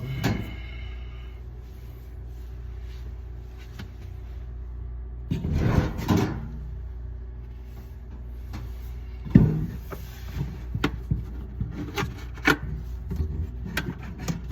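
Scraping, rubbing and knocking of hard parts being handled, with a burst of scraping about halfway through and a run of small clicks and knocks near the end, over a steady low hum.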